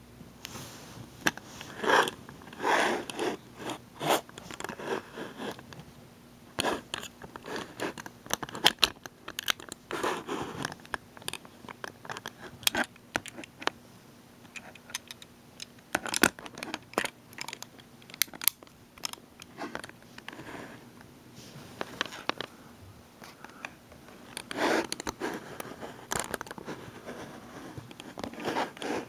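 Irregular sharp clicks, scrapes and crunching rustles at close range, coming in clusters with short gaps between.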